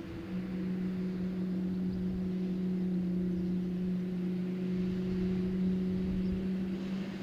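Jet airliner engines running with a steady low hum and two held tones over a rumble. The lower tone comes in just after the start and cuts out near the end.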